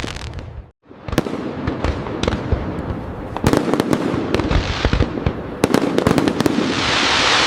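Fireworks going off: a burst of rapid sharp bangs and cracks over a low rumble, ending in a dense crackling hiss that swells near the end. The sound cuts out briefly just before a second in.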